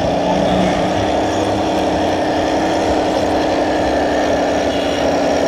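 Motorcycle engine running steadily at an even speed, loud and unchanging, with a faint held hum under the engine noise.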